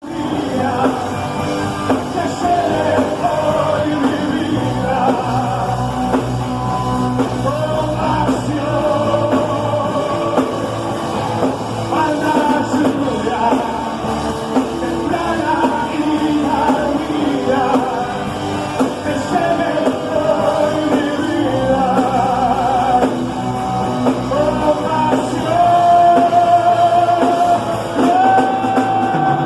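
Rock-style Christian worship music from a band, with a wavering melodic lead over a steady accompaniment.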